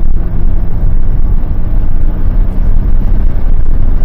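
Highly modified Porsche Boxster's flat-six engine running steadily at speed on track, heard from inside the car as a loud low rumble mixed with road and wind noise.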